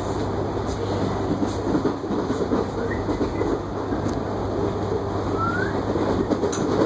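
Steady running noise of an electric suburban train heard from inside the passenger carriage: wheels rumbling on the track with a constant low hum. Two short, faint rising squeals come about three and five and a half seconds in.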